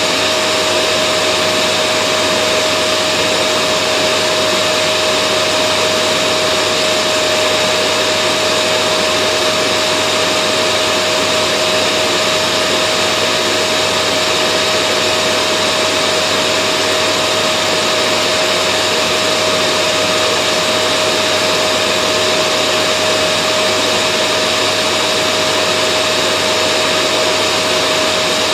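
Vacuum cleaner running steadily: an even rush of air under a constant whine from the motor, with no change in pitch or level.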